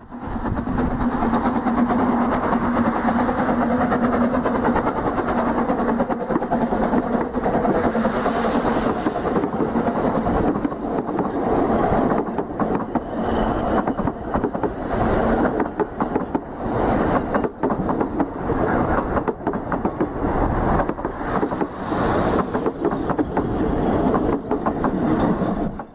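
Railway passenger carriages rolling past close by, their wheels clattering irregularly over the rails, with a steady low hum through the first several seconds.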